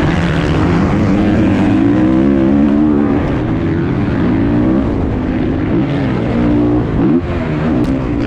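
Several dirt bike engines running hard in a race, revving and changing gear, their overlapping pitches rising and falling.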